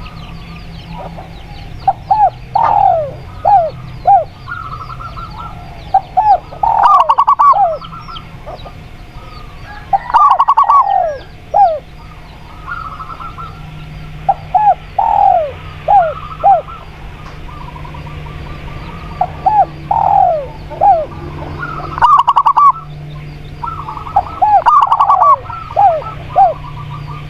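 Spotted dove and zebra dove cooing: short phrases of quick, falling coo notes repeating every three to four seconds, with faint small-bird chirps behind them.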